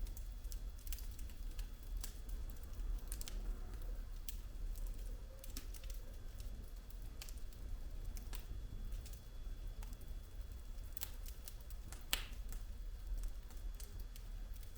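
Wood logs burning in a fireplace, crackling with irregular sharp pops, the loudest about twelve seconds in, over a low steady rumble.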